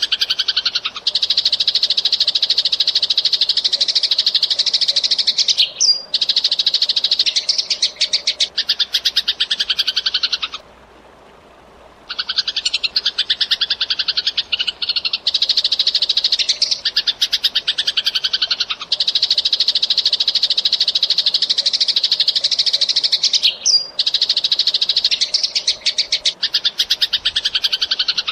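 Eurasian tree sparrow (burung gereja) chirping in fast, tightly packed runs of chirps lasting many seconds, broken by one pause of about a second and a half near the middle.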